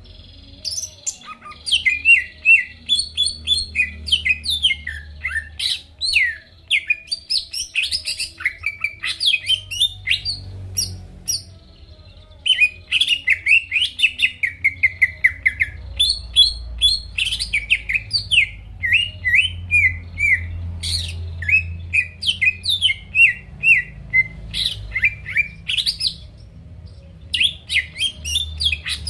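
Cucak ijo (greater green leafbird) singing a fast, varied song of short sweeping chirps and whistles, broken by brief pauses about a second in, at the middle and near the end.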